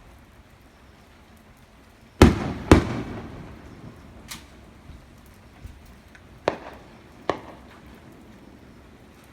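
Aerial fireworks shells bursting: two loud booms about half a second apart a couple of seconds in, echoing as they fade, followed by three fainter cracks.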